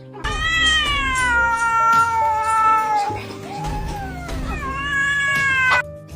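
A cat yowling in two long drawn-out meows. The first lasts about three seconds with its pitch slowly falling; the second, shorter one comes near the end.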